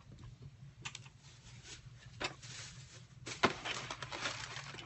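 Food packaging being handled at a table: soft rustles and light taps, with one sharper click about three and a half seconds in, over a steady low hum.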